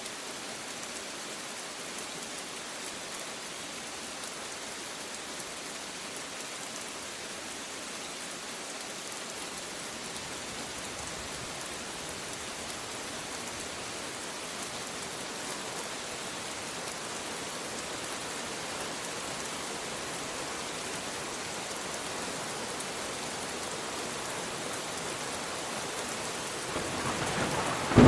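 Steady rain falling in an even hiss. A low thunder rumble starts to swell near the end.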